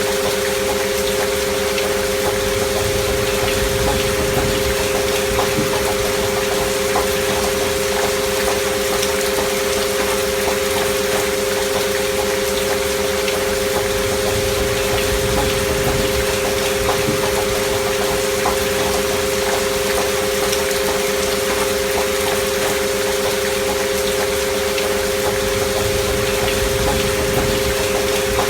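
Steady rain with fine pattering, mixed with two steady pure sine tones held without change, as in a binaural-beat frequency track.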